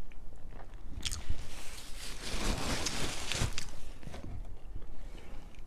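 Close-miked eating of a veggie burger and crinkle-cut fries: chewing and biting with small crunches and wet clicks, and a longer, denser rustling noise about two seconds in.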